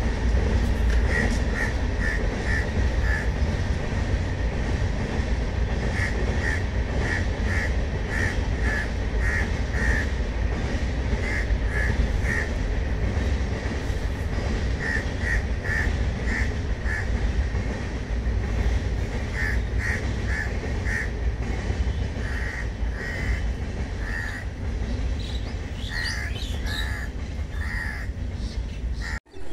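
Express passenger train running past at a distance, a steady rumble of coaches on the rails, with a bird calling in repeated short series of calls over it.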